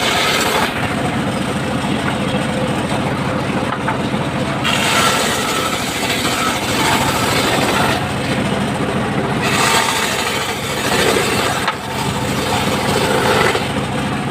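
Engine-driven circular saw running steadily as it saws timber, the brighter, hissier cutting sound coming and going in stretches of a few seconds over the constant engine hum.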